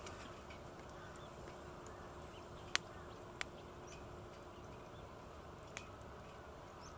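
Small wood campfire with sharp pops: three clicks, the loudest about three seconds in, over a faint steady background hiss.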